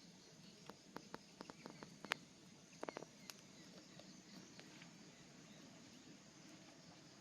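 Wood fire crackling faintly, a scatter of sharp irregular pops in the first three seconds or so, then only a low steady hiss.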